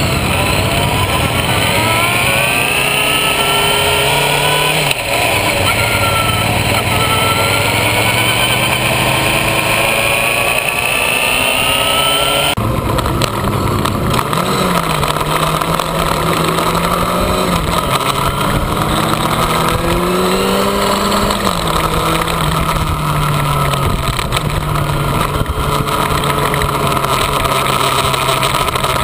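Yamaha FZ6 motorcycle's inline-four engine accelerating, its pitch climbing through the revs and dropping at gear changes, heard from a camera mounted beside the exhaust with rushing noise from riding at speed. About twelve seconds in the sound changes abruptly to steadier running, the pitch rising and falling.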